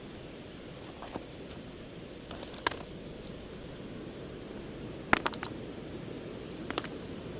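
Steady low rush of sea waves and wind, with a few sharp clicks and taps scattered through it; the loudest come in two short clusters, one near the middle and one just after.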